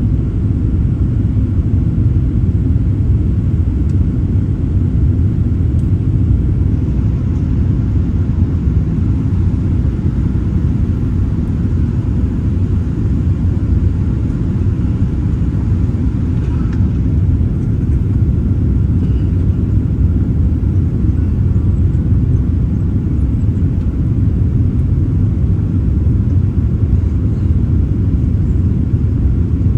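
Boeing 787-9 airliner's steady low rumble, unchanging throughout.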